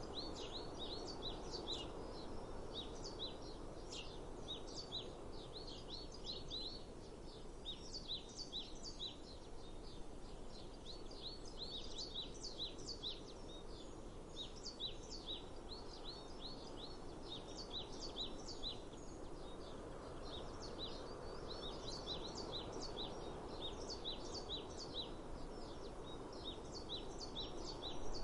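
Several birds chirping continuously in quick, short chirps, several a second, over a steady background of outdoor noise.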